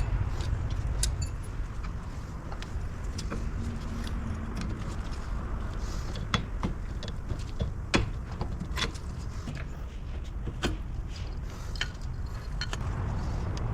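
Metal brake parts and hand tools clicking and clinking during the stripping of a front brake assembly, in scattered sharp ticks with two louder knocks about six and eight seconds in, over a steady low rumble.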